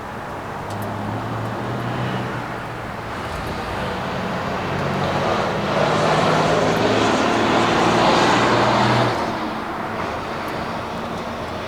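A road vehicle passing by: its engine and tyre noise swells, is loudest about six to nine seconds in, then fades quickly.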